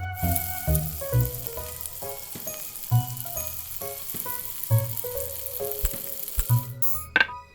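Hot oil sizzling steadily as chicken fries in a miniature pan, cutting off about a second before the end. Background music plays underneath.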